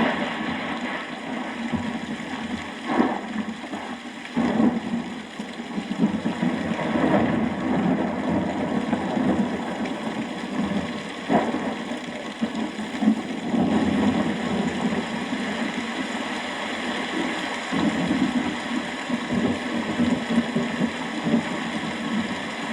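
Thunderstorm: steady heavy rain, with thunder rumbling and swelling in loudness several times and a few sharp cracks.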